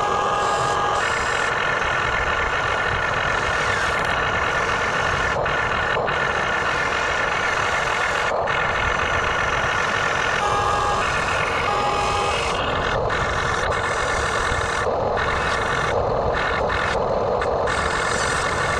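Radio-controlled backhoe excavator model running: a steady mechanical whine with several high tones, some of which come and go.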